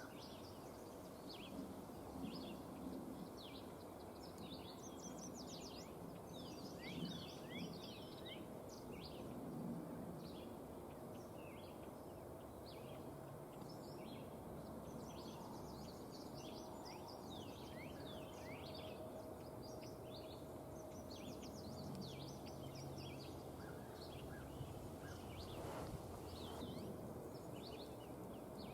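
Songbirds chirping and singing: many short, quick, high notes throughout, over a steady outdoor hush.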